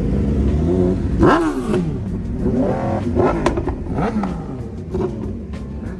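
Car engine revving in several short blips, its pitch rising and falling each time, over the steady low running of engines. A few sharp pops near the end.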